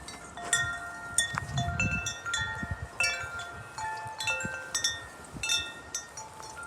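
Metal tube wind chimes ringing in gusty wind, many strikes at several pitches overlapping. A brief rumble of wind on the microphone comes about one and a half seconds in.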